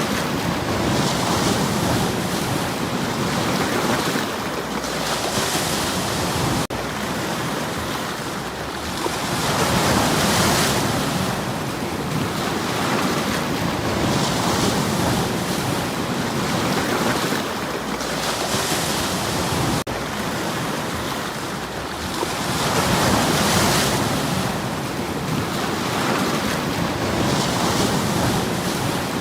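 Sea waves washing over stones on the shore, each surge swelling with a hiss and easing off again about every four to five seconds.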